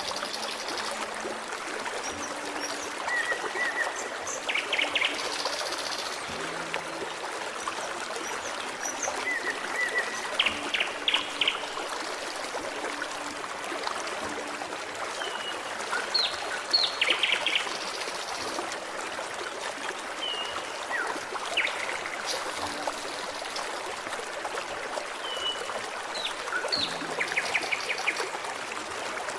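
Forest stream trickling and gurgling steadily, with songbirds calling over it in short chirps and quick trills every few seconds.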